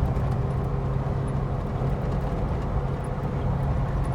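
Car engine and tyre/road noise heard from inside the cabin as the car overtakes at speed: a steady low drone over a constant rushing noise.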